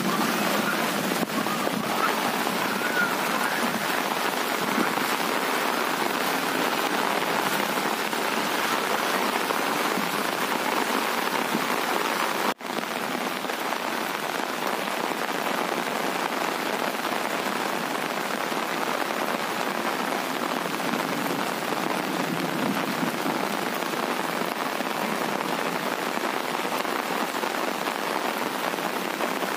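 Heavy rain falling steadily, an even hiss throughout. The sound drops out for an instant about twelve seconds in.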